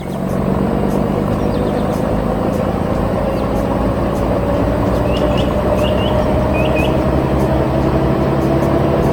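Excavator engine running steadily under load, with a whine that rises slowly in pitch. A few short bird chirps come in around the middle.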